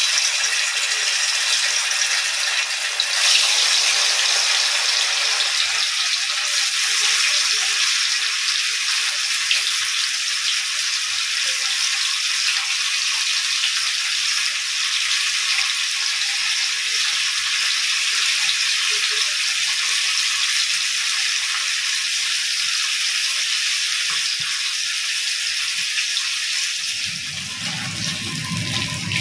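Paneer cubes sizzling as they fry in hot oil in a kadhai. The steady sizzle starts suddenly as the first pieces go into the oil and swells briefly about three seconds in.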